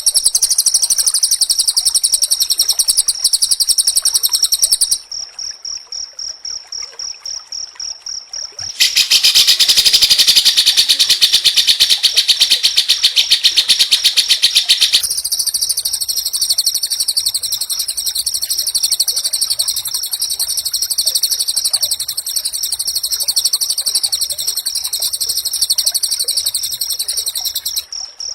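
White-rumped shama (murai batu) singing rapid, tightly packed trills of fast repeated high notes. About five seconds in it drops to a quieter, thinner string of repeated notes, then about nine seconds in breaks into a louder, harsher trill for some six seconds before returning to the high rapid trilling.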